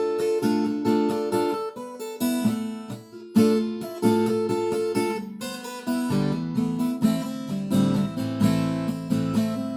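Acoustic guitar strummed, chords ringing in an instrumental break without singing; the bass notes change about six seconds in.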